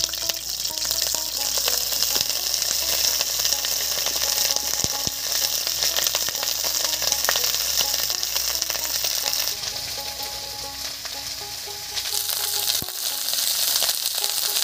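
Vegetables (cauliflower, cabbage, carrot and potato) sizzling as they fry in hot mustard oil in a kadai. The sizzle eases for a couple of seconds past the middle, then picks up again.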